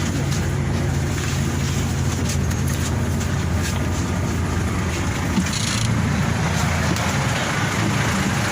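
A vehicle engine running steadily, a continuous low hum with road or traffic noise over it.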